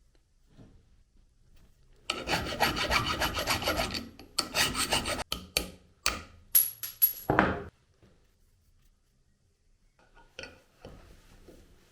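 Rasping strokes of a hand tool scraping a hard surface: one continuous scrape of about two seconds, then a run of shorter, separate strokes with a brief high squeal among them.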